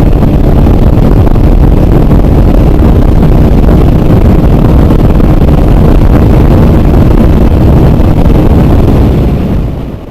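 Hero Super Splendor motorcycle's single-cylinder engine running while riding at speed, with heavy wind buffeting on the microphone covering most of it. The sound fades out near the end.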